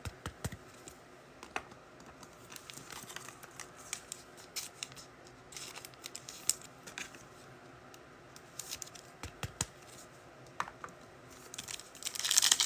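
Trading cards being handled, small scattered clicks and taps of card stock, then a foil card-pack wrapper crinkling and tearing near the end as the next pack is opened.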